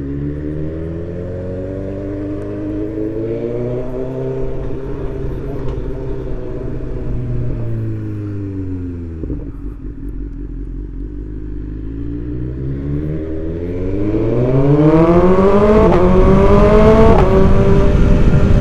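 BMW S1000XR inline-four engine through a full Akrapovic titanium exhaust, under way on the road. The revs rise and ease off, then climb harder and louder from about eleven seconds in, with a sudden drop in pitch near the end as it shifts up a gear.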